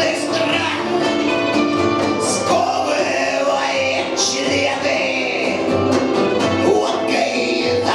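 Punk rock band playing live, with a singing voice over the band.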